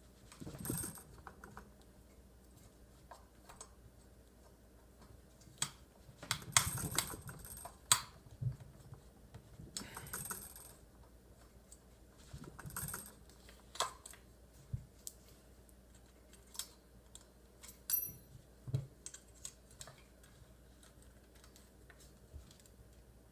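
Screwdriver and small hardware clicking, tapping and scraping as screws are worked out of a plastic Tacstar side saddle shell carrier on a shotgun receiver. Irregular clicks with a few short scraping rasps.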